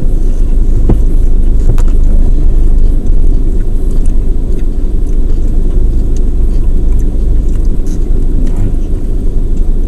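Steady low rumble of a car with its engine running, with a few light clicks about one and two seconds in.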